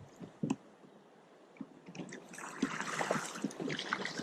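Choppy water splashing and slapping against a kayak, with small knocks. Quiet at first apart from one click about half a second in; the splashing picks up and gets louder about two seconds in.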